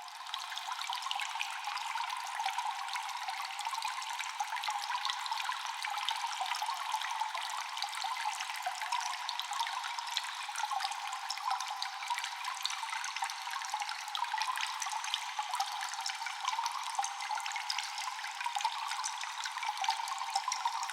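Cave water ambience: constant echoing drips, many small ticks a second, over a steady hiss of running, trickling water.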